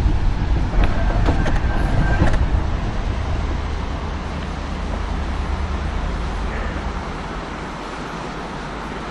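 Mountain coaster cart rolling along its rail track, a steady rumble with a few sharp clicks in the first two seconds. The rumble eases off over the last couple of seconds as the ride winds down.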